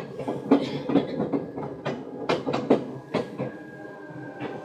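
Seibu 2000 series electric train running, heard inside the car: the wheels clack irregularly over rail joints over a steady rumble, with a faint steady high tone from the running gear.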